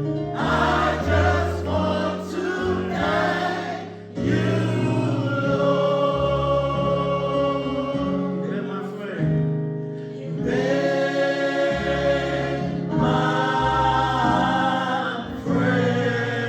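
Choir singing a gospel song with keyboard accompaniment, the voices holding long notes.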